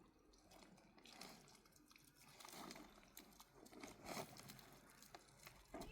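Faint, irregular crunching.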